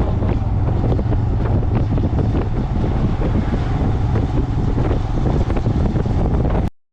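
Wind buffeting the microphone on a moving motorcycle, over the engine's steady low drone. The sound cuts off suddenly just before the end.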